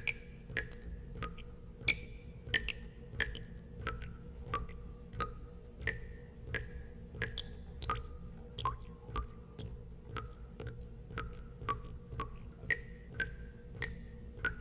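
Water drops falling into water, about two a second at an uneven pace. Each is a sharp click followed by a short pitched plink, higher or lower from drop to drop, over a steady low hum.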